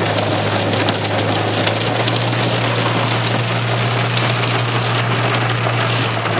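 Heavy rain pelting the car's roof and windows, heard from inside the cabin as a dense hiss of fine ticks, over the steady low hum of the engine running.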